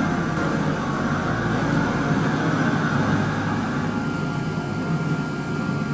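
A steady engine drone with a low hum, unbroken throughout, and a thin steady whine joining in about four seconds in.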